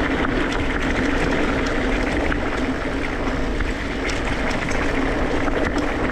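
Mountain bike riding a dirt singletrack: a steady rush of wind and tyre noise, with frequent small clicks and rattles.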